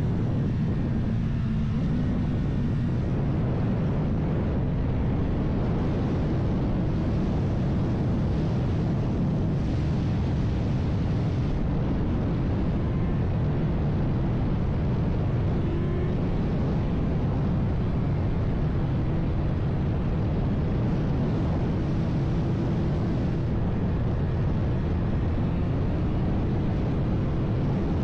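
Vehicle at speed: a steady, loud rush of wind and road noise over a low engine drone, with a faint engine tone that rises slightly now and then.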